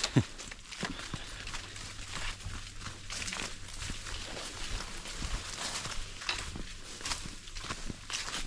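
Footsteps crunching and rustling through forest undergrowth and leaf litter, irregular steps with brushing of vegetation. A single sharp knock sounds just after the start.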